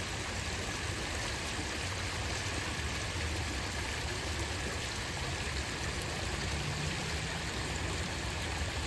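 Small rocky creek: water running steadily over stones in a continuous, even rush.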